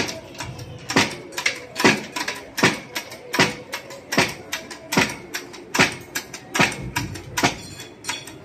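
Steady repeated hammer blows, about one every three-quarters of a second, as a motor is knocked apart.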